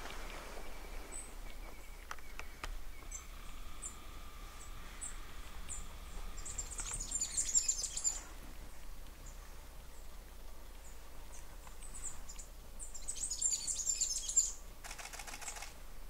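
Small birds calling: scattered thin high-pitched chips, with two bursts of rapid, very high twittering, about six seconds in and again about thirteen seconds in. A short rapid rattle near the end.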